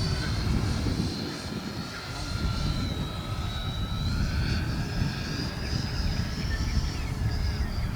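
Electric ducted fan (80 mm FMS EDF) of a radio-controlled Boeing 727 model jet whining steadily in flight. Its pitch sags slowly and then rises again about halfway through.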